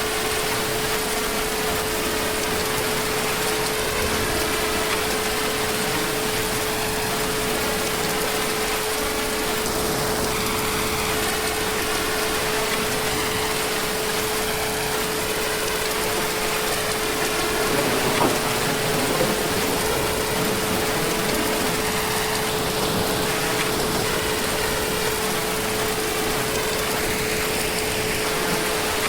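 Heavy rain falling steadily as an even hiss, with a steady hum running underneath it.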